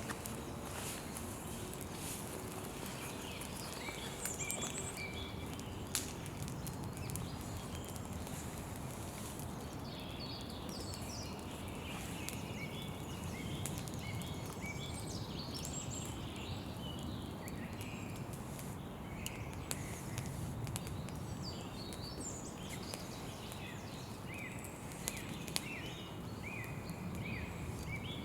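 Campfire burning with a steady hiss and scattered sharp crackles, most of them in the first few seconds, while small birds chirp repeatedly.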